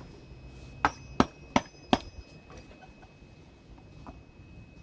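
A coconut being chopped at, four sharp blows in quick succession, about three a second, with the blade not yet cutting into it.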